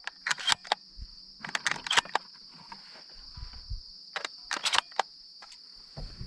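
Crickets chirping in a steady high drone, with scattered sharp clicks and knocks of handling noise over it.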